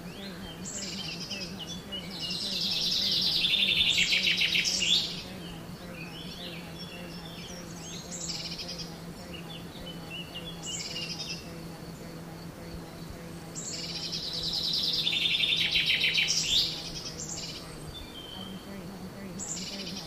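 Woodland birdsong: scattered high chirps, and twice a songbird's rapid trilling song that swells in loudness for about three seconds and then stops abruptly. A faint steady low hum runs underneath.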